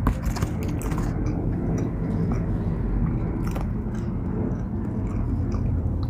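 A person chewing a mouthful of Nashville hot chicken sandwich, with steady chewing and scattered small mouth clicks.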